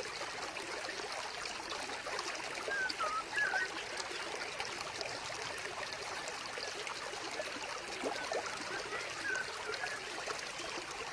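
Water trickling steadily in a vivarium's water feature, with a few brief higher squeaks about three seconds in and again near nine seconds.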